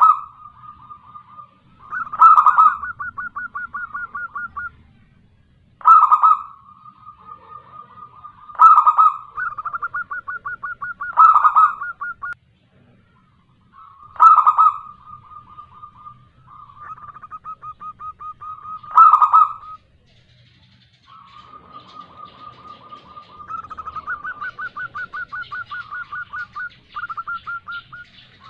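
Zebra dove (perkutut), a local female, calling in repeated bouts: each begins with a loud note and runs into a fast string of short, even coos, with brief pauses between bouts. This is a female's call that draws males to answer.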